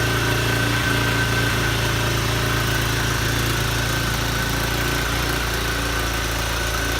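150cc ATV's single-cylinder four-stroke engine idling steadily, with a thin steady whine above it.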